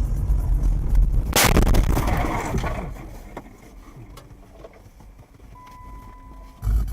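Dashcam audio of a car's road rumble broken by one loud crash of a collision about a second and a half in, with crunching noise dying away over the next second or so. After that it is quiet but for a few small knocks and a short steady beep near the end.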